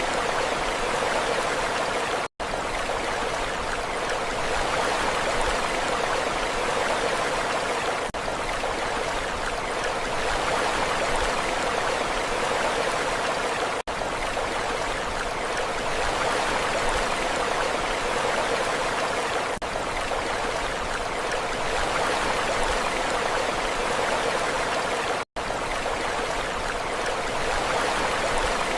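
Steady rushing water, an even continuous wash with no rise and fall of waves. It cuts out for an instant three times, at even intervals.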